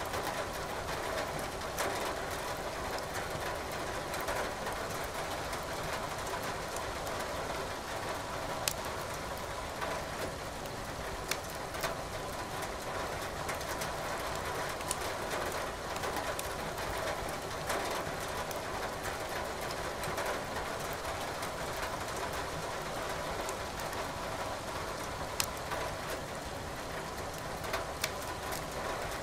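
Steady hiss of rain with sparse, sharp pops and crackles from burning firewood in a fireplace, about half a dozen over the stretch.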